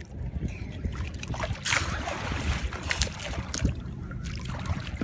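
Sea water sloshing and splashing, with wind buffeting the microphone as a steady low rumble; a brief louder rush of water about two seconds in, and a few light knocks.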